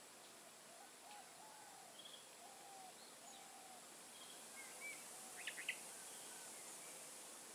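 Faint forest ambience: birds calling with short scattered chirps and a run of low whistled notes, over a steady high hiss. About five and a half seconds in, a quick burst of three or four sharp chirps stands out as the loudest sound.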